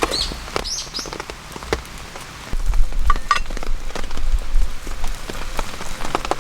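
Rain falling, with individual drops ticking irregularly on a surface. It gets louder and fuller about two and a half seconds in.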